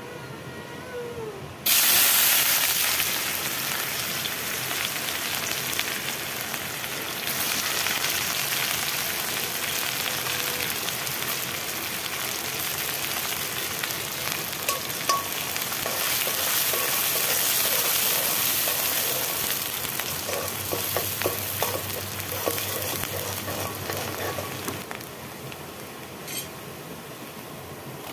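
Sliced onions hitting hot oil in an aluminium kadai: a sudden loud sizzle starts about two seconds in and carries on as steady frying. Scattered clicks of stirring come through the middle, and the sizzle dies down somewhat near the end.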